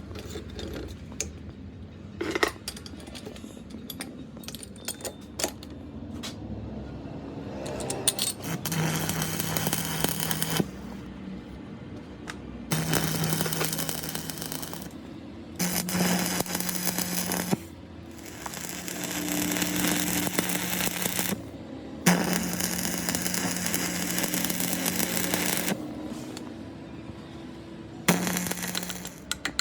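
A power tool with a motor hum run in about six short bursts of two to four seconds each, starting about eight seconds in. Before that there are scattered clicks and knocks of metal parts being handled.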